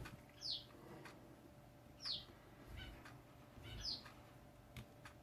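A bird calling faintly: three short chirps, each falling in pitch, about every second and a half to two seconds.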